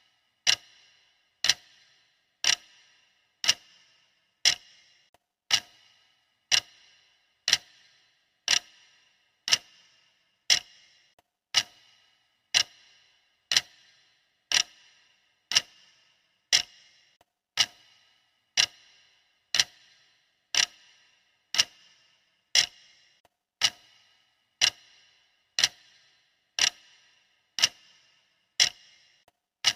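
Clock-style ticking of a countdown timer: one sharp tick a second, each with a short bright ring after it, perfectly even.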